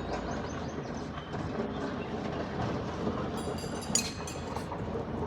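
Continuous mechanical clatter and rumble, with a sharp ringing metallic clank about four seconds in.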